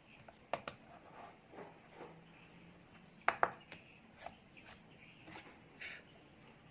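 Scattered sharp clicks and taps, loudest as a pair a little past three seconds in, over a faint steady chirring typical of insects.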